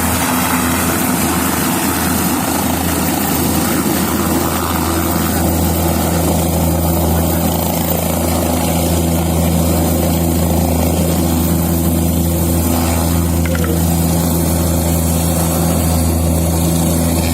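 Helicopter rotors and engine running: a loud, even low drone with several steady tones under a broad rushing noise, the rushing easing a little about five seconds in.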